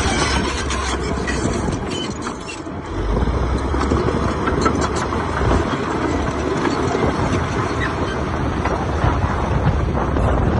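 Heavy diesel earthmoving machinery running steadily with a low rumble, easing off briefly about two to three seconds in before picking up again.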